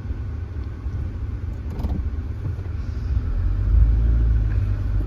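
Low, steady rumble of a 1997 Honda Civic driving, heard from inside the cabin, growing louder about three seconds in.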